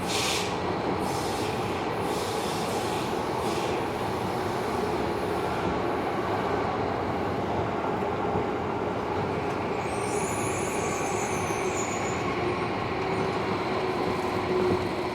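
Tobu 70000 series subway train running at speed, heard from inside the car: a steady rumble of wheels on rail, with a high wheel squeal about ten seconds in that lasts some two seconds.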